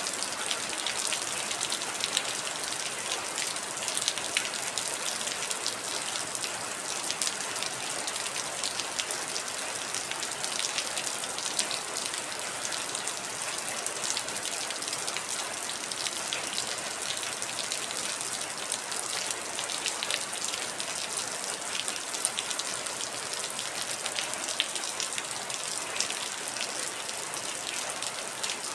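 Heavy rain falling steadily, a dense hiss of drops with many small, sharp splashes and patters on a hard surface.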